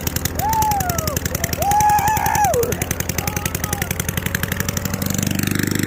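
Straight-piped single-cylinder lawn mower engine running hard with no muffler and no air box, its exhaust a rapid, even popping. The note gets fuller about five seconds in. Voices shout over it twice.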